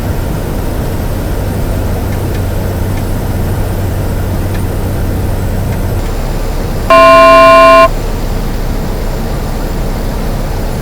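Steady cockpit noise of a Cessna 208 Caravan turboprop on approach, with a low hum that stops a little past halfway. About seven seconds in, a loud electronic alert tone sounds for about a second.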